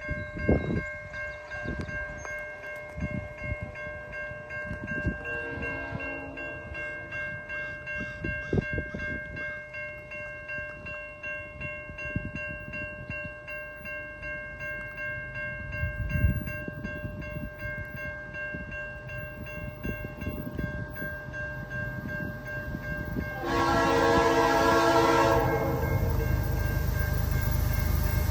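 Leslie RS-3L five-chime horn on a CN diesel locomotive approaching a road crossing. It gives a short, fainter blast about five seconds in and a loud blast lasting about two seconds near the end. The low rumble of the locomotive then rises as it draws close.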